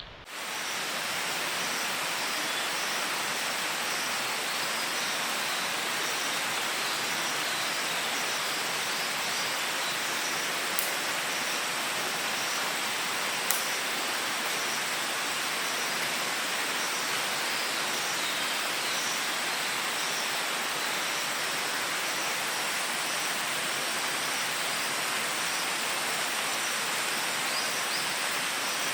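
Steady rushing hiss of running or falling water, such as a forest stream or rain, starting abruptly. Two sharp ticks stand out over it, about eleven and thirteen and a half seconds in.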